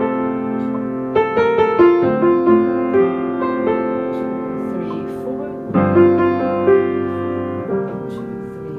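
Piano playing a slow legato passage: single notes struck one after another and held so they ring together into chords, with a fresh group of notes about six seconds in.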